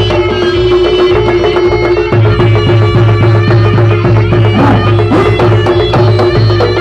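Loud Javanese jaranan ensemble music: a held, droning reed tone over dense, quick hand-drum strokes, with a couple of short sliding notes about five seconds in.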